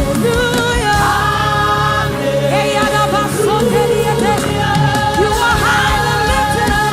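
Live gospel worship music: a choir and lead voices singing over a band with a steady beat.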